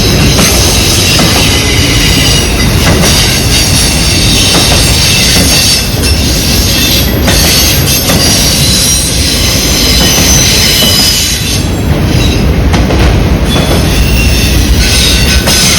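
Loud, continuous rumble of freight cars rolling past on the rails, with wheel squeal heard as several steady high-pitched tones throughout.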